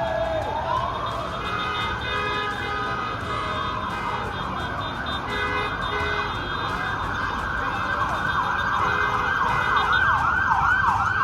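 Emergency vehicle siren sounding a slow wail that falls, rises and holds high, then switches to a fast yelp of rapid repeated sweeps near the end.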